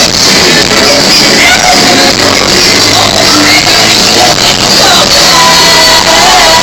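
Live band music with singing, recorded very loud and distorted through a phone's microphone.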